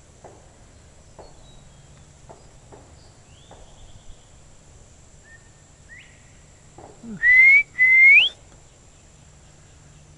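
A person whistling in imitation of a bird's call: two loud rising whistles close together about seven seconds in, after a few fainter whistled notes.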